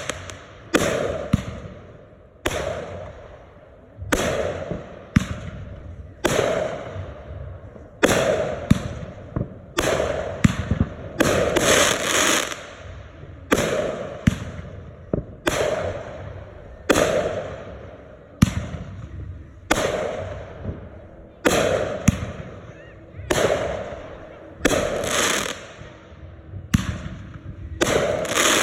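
Aerial fireworks going off in a continuous string, about one sharp bang a second with some coming in quick pairs. Each bang dies away over a fraction of a second.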